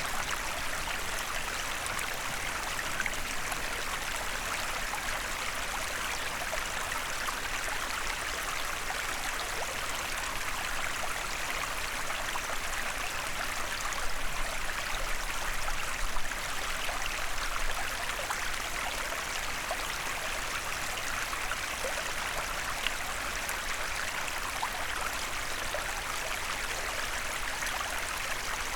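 Small forest stream flowing steadily, a continuous rushing babble of water, briefly a little louder around the middle.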